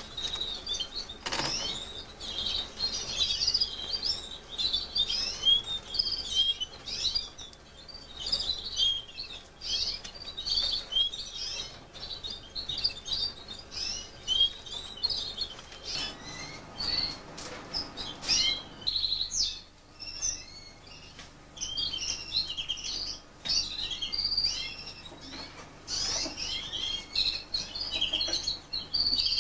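Fife Fancy canaries chirping and twittering, a dense stream of quick, high, overlapping calls and trills.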